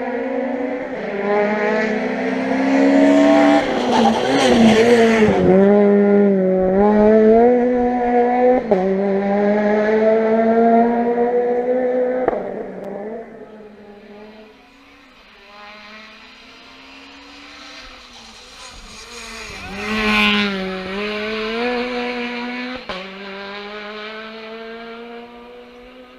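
Rally car engine driven hard past on a stage, revving high, dropping in pitch as it brakes and changes down for a corner about five seconds in, then pulling away. There are a few sharp cracks along the way. It fades, then comes back loud again around twenty seconds in with another drop and rise in revs.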